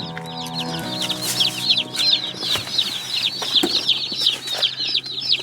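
A crowd of meat chicks peeping without pause: many short, high, falling peeps overlapping, with a few knocks. Background music fades out about a second in.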